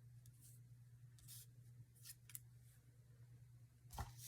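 Near silence over a low steady hum, with a few faint swishes of paper being handled or cut at the craft table and a soft knock near the end.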